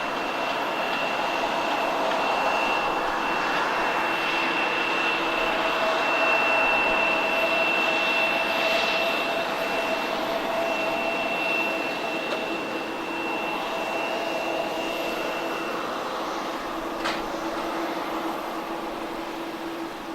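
Boeing 747-400 freighter's jet engines on landing approach: a steady rushing roar with a held high whine, growing louder and then slowly fading as the aircraft passes.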